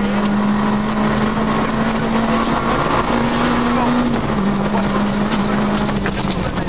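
Peugeot 106 rally car's engine, heard from inside the cabin, pulling hard at steady high revs; its note steps up about three seconds in and drops back a little over a second later.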